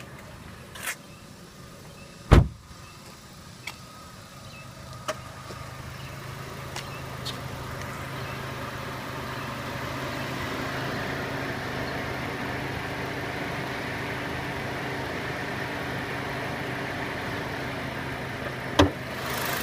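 Chevrolet Sonic's four-cylinder engine idling with a steady hum that grows louder over the first several seconds. A few sharp clicks and a knock come about two seconds in, and another knock comes near the end.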